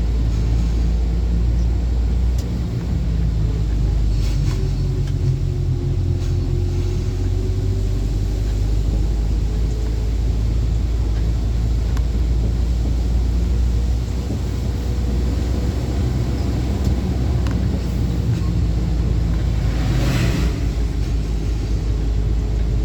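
Truck engine running steadily while driving, a deep, even sound, with a brief rushing noise near the end.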